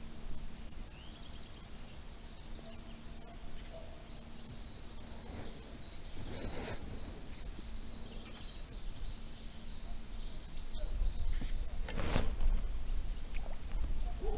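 A small bird calling in a quick run of repeated high chirps for several seconds, over a steady outdoor hush. Wind rumble on the microphone grows stronger near the end, with a couple of brief rustles.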